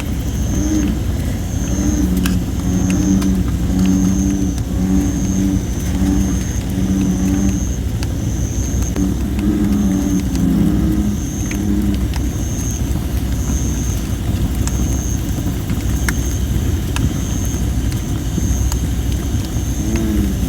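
American bullfrogs calling in runs of deep, repeated notes, about one a second, for the first twelve seconds or so and again near the end. Under them, a wood fire of thin, not fully dried red robin (Photinia) wood gives off occasional sharp crackles.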